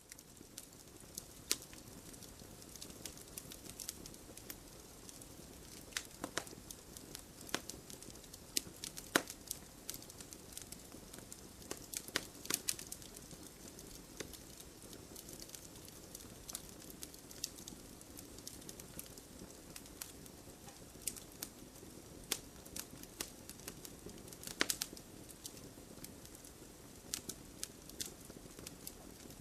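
Campfire burning, wood crackling and popping in irregular sharp snaps over a soft steady hiss.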